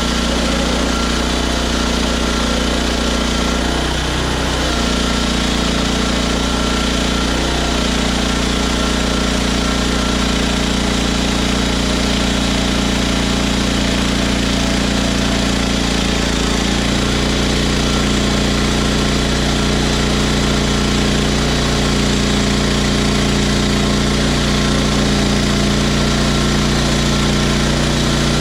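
Engine of a Hudson HFE30 bandsaw sawmill running steadily, its pitch shifting slightly about four seconds in and again a little past the middle.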